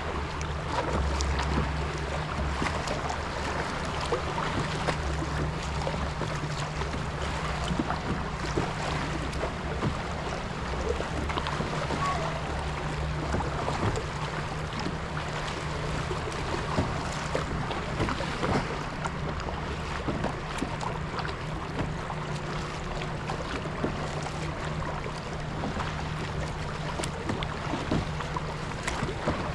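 Kayak paddling on open water: paddle strokes and small splashes with water lapping the hull, and wind on the microphone. A steady low drone runs underneath.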